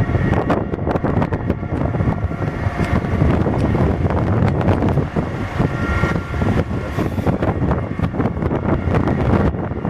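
Wind buffeting the microphone over a low, steady drone: the unexplained sound in the sky, heard the same from every direction.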